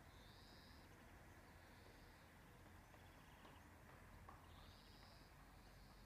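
Near silence: faint outdoor ambience with four faint, high-pitched calls from distant birds and a couple of short, rapid ticking trills.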